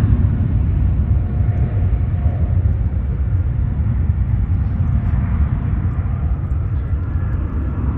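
Jet airliner's engines rumbling low and loud as the plane passes, the rumble slowly fading.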